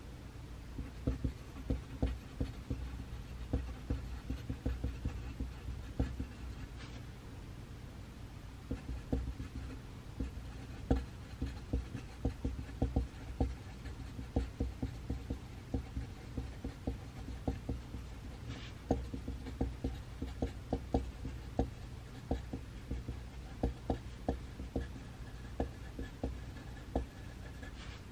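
Pencil writing on paper: a steady run of short scratchy strokes and light taps, pausing briefly now and then, over a steady low room hum.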